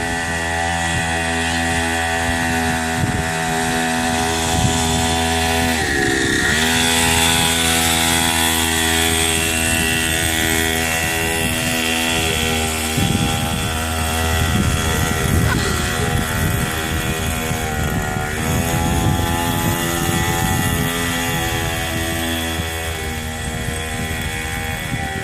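Mini motocross bike's small engine running steadily, its pitch dipping and climbing back about six seconds in and again around eighteen seconds in.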